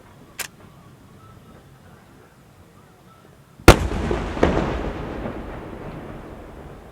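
Festa fireworks: a small sharp crack, then a few seconds in a loud bang, followed by a second burst and a rumbling, crackling tail that dies away over about three seconds.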